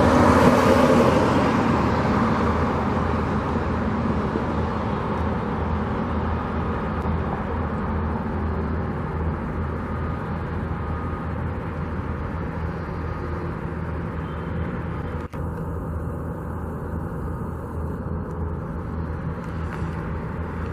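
Road traffic: a vehicle passes close in the first couple of seconds, then a steady low rumble of engines carries on.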